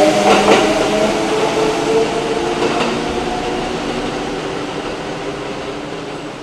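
Electric train running, a hum of several steady tones over track noise, with a few clicks about half a second in; it fades out gradually.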